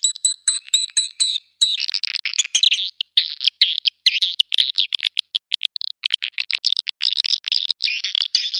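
Swiftlet lure call, the recorded calling sound played to attract edible-nest swiftlets: rapid chirps, several a second. It starts as clear, high chirps, then about one and a half seconds in turns into a denser run of buzzy twittering.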